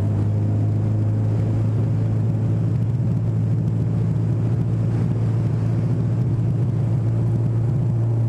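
Honda CB1000R's inline-four engine running at a steady cruise, with a constant hum and an even rush of wind and road noise.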